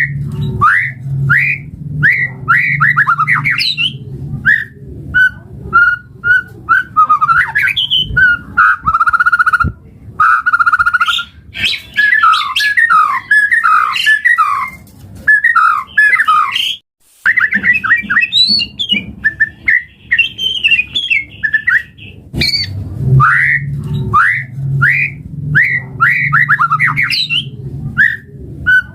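White-rumped shama (murai batu) singing a full, varied song of rapid whistled notes and rising and falling slurs, with one brief pause a little past halfway.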